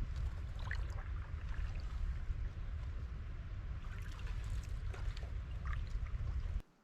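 Water lapping and trickling around a canoe over a steady low rumble, with small scattered drips and ticks; it cuts off suddenly near the end.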